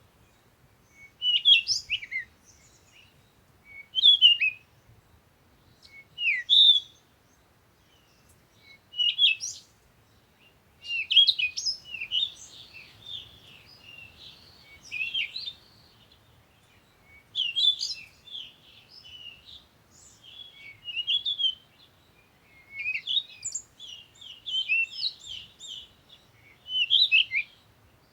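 Small songbirds chirping in short, high, repeated phrases, at first a few seconds apart and then running together into denser twittering about a third of the way in.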